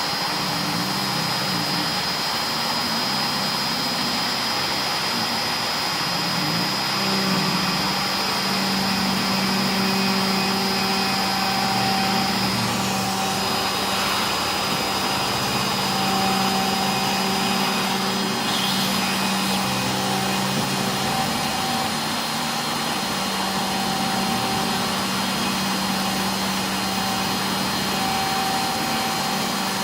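C-Beam CNC machine running, its Chinese router spindle on an inverter giving a steady high tone over a constant running noise, while the stepper motors drive the axes in stops and starts, their lower tones coming and going. The high tone fades about halfway through.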